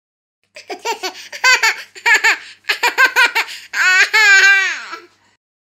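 A baby laughing in quick high-pitched bursts, then a long high call that wavers and falls in pitch near the end.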